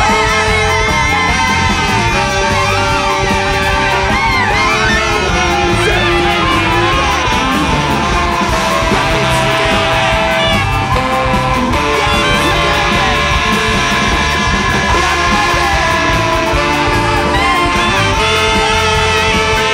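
Large free-jazz-based big band playing live, loud and dense: held, wavering melody lines over electric guitar, bass and drums.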